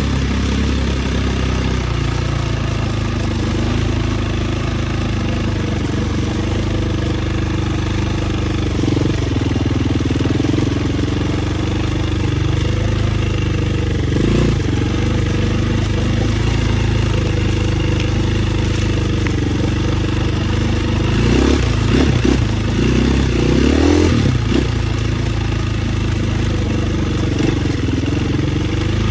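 Dirt bike engine running steadily as it is ridden, its pitch rising and falling with the throttle, with a burst of quick revs about three quarters of the way through.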